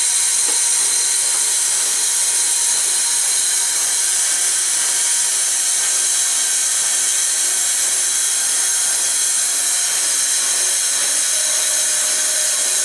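Steady, loud hiss of steam from Southern Railway No. 630, an Alco 2-8-0 Consolidation steam locomotive, heard from inside its cab.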